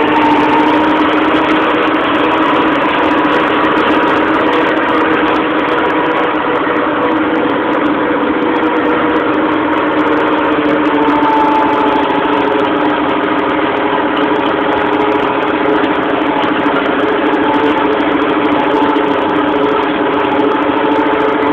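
Tractor engine running steadily at a fairly constant pitch, with only small shifts in engine speed.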